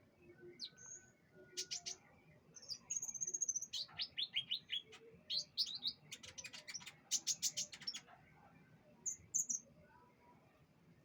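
Canary singing: phrases of rapid trills and sharp repeated notes, with a held high whistle about three seconds in and a fast trill between about six and eight seconds.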